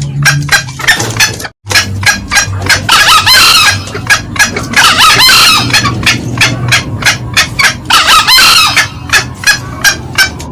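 Green junglefowl calling, as on a loud lure recording: a fast run of short cackling notes, about four or five a second, broken by three longer, louder crows about three, five and eight seconds in. The sound cuts out for an instant about a second and a half in.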